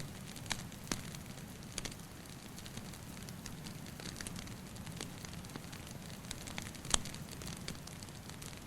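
Wood fire crackling, with scattered sharp pops over a steady low hiss; one pop about seven seconds in stands out as the loudest.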